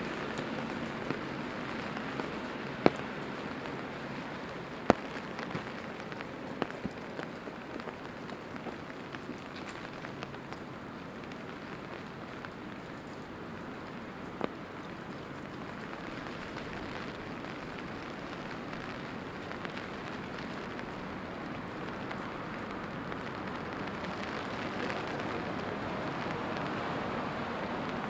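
Steady rainfall, with a few sharp, louder drip taps standing out, the loudest about three and five seconds in.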